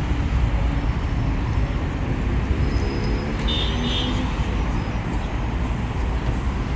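Rush-hour city street traffic: a steady rumble of vehicle engines and tyres, with a brief high squeak about three and a half seconds in.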